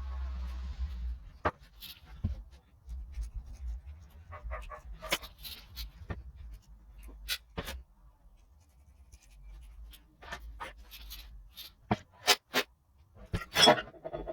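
Irregular sharp clicks and knocks of metal tools and engine parts being handled on a workbench, with a faint low hum underneath; the loudest knocks come near the end.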